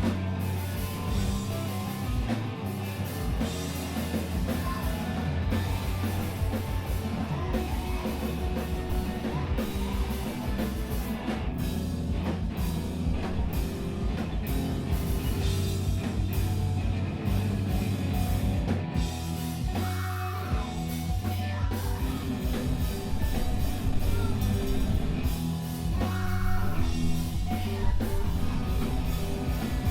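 Live emo/screamo band playing a song: drums, bass and distorted guitars, with vocals at moments.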